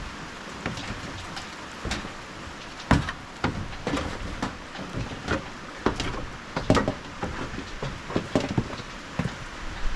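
Rain falling steadily, with irregular sharp metal knocks and taps, the loudest about three seconds in and near seven seconds, as the stainless cap is worked loose from the furnace's chimney stack.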